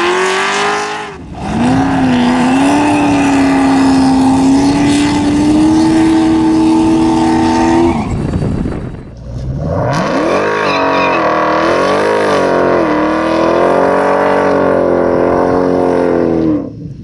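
Race cars at full throttle in two edited clips, each a loud, high, steady engine note that starts and stops abruptly. The second clip rises in pitch as it starts, dips briefly midway, and cuts off just before the end.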